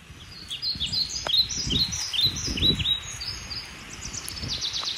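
Birds calling: a series of short, falling chirps, about two a second, then a quicker run of higher, thinner notes near the end.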